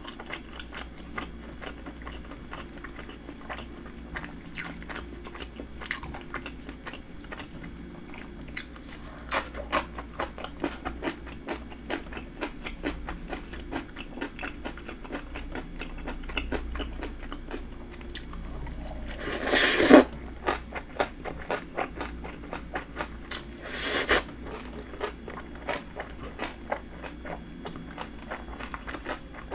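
Eating sounds: chewing and crunching crispy breaded fried shrimp, a steady run of small crackling crunches. Two louder crunches stand out, about two-thirds of the way in and again a few seconds later.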